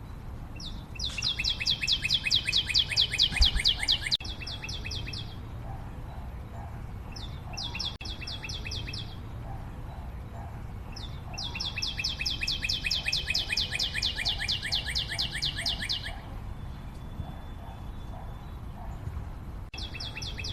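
A small bird singing rapid trills of about ten notes a second, each trill falling slightly in pitch. It comes in bouts: two long ones of about four seconds and two short ones, over a steady low rumble.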